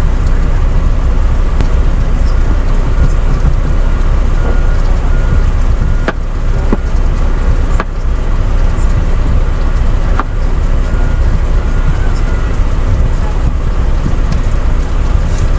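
Steady low rumble of an idling semi truck, with a few sharp knocks about six, eight and ten seconds in.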